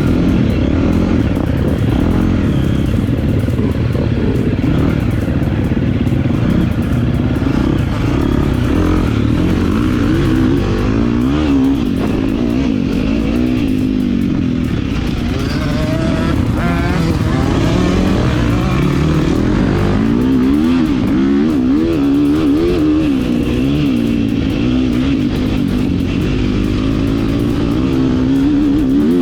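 Motocross dirt bike engine being ridden hard, its pitch rising and falling over and over as the throttle is opened and shut and the gears change.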